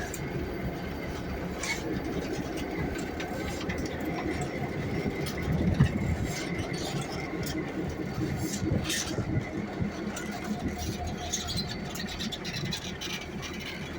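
Freight train rolling past: a steady low rumble with occasional sharp clicks, and a louder low thump about six seconds in.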